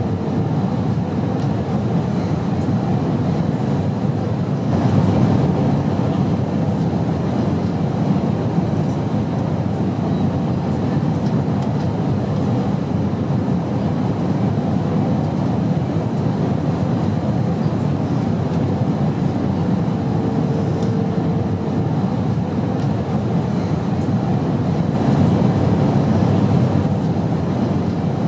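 Steady airplane engine and airflow noise in flight, an even low rumble that swells slightly twice.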